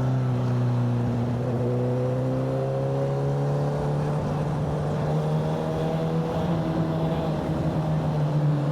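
Motorcycle engine running while the bike is ridden, its note held fairly steady with slow small rises and falls in pitch.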